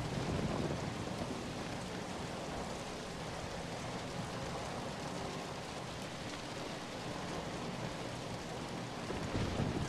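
Steady rain falling, an even, dense hiss, with two brief low swells in loudness about half a second in and again near the end.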